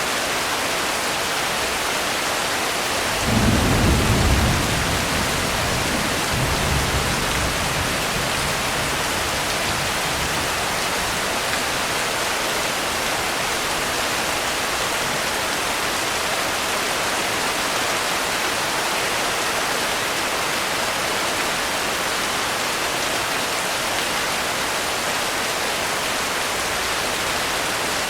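Steady heavy rain, with a low rumble of thunder about three seconds in and a softer rumble a few seconds later.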